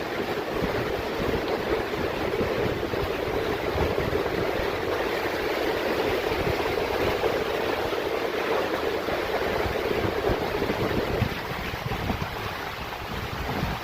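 Steady rushing of a mountain stream, with wind buffeting the microphone in low gusts. The water sound drops back a little near the end.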